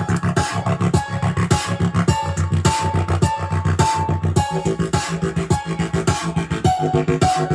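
Music with heavy bass and a steady beat of about two hits a second, played through the WiseTiger P3 Bluetooth speaker and picked up by a lapel microphone.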